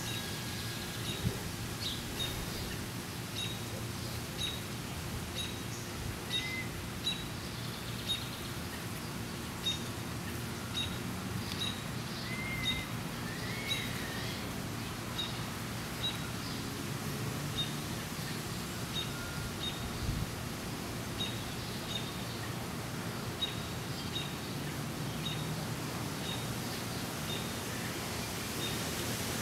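A bird repeating a short, high chirp at an even pace, a little more than once a second, with a few brief warbling calls in the middle, over a steady low outdoor hum.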